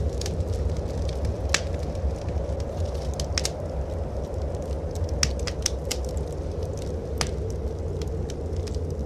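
Wood fire in a fireplace crackling, with sharp pops scattered irregularly about once a second, over a steady low rumble of blizzard wind.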